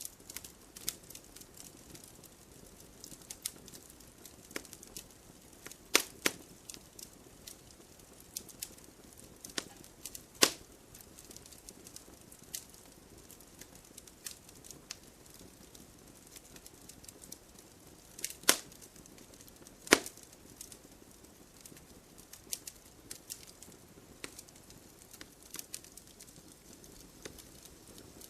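Wood logs burning in a fireplace: frequent small, irregular crackles with four sharp, louder pops, over a faint even hiss.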